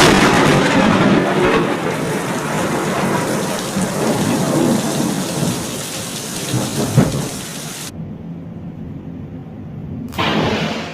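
Thunder from a close lightning strike over heavy rain: a sudden loud crack at the start rolls into a long rumble that slowly fades, with another sharp crack about seven seconds in. The sound thins out abruptly about eight seconds in, then another loud burst of thunder and rain comes near the end.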